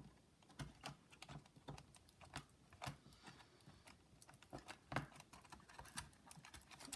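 Faint, irregular light clicks and taps of a laptop's plastic chassis and internal cables being handled while the cables are routed through it.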